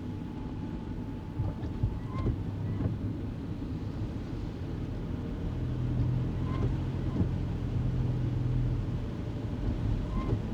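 Kei car cabin on the move: steady engine hum and road rumble, the hum swelling for a few seconds in the middle. Pairs of short squeaks repeat about every four seconds.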